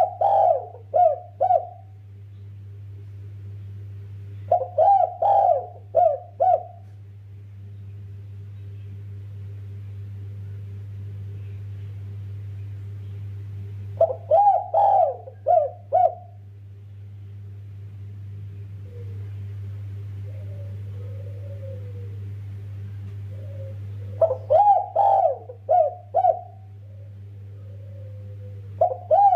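Spotted dove cooing: four phrases of four or five quick notes, each about two seconds long and several seconds apart, over a steady low hum.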